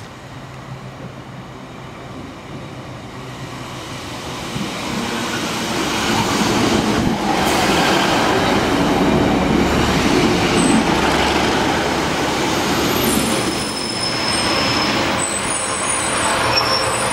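Northern diesel multiple unit pulling into the platform: the engine and wheel noise grows steadily louder over the first six seconds as it approaches, then the carriages run past slowly. Thin, high-pitched brake and wheel squeals come in near the end as it slows to stop.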